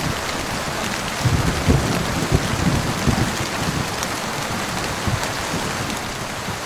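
Heavy rain falling steadily, with scattered sharp drop ticks and a low, uneven rumble of thunder underneath.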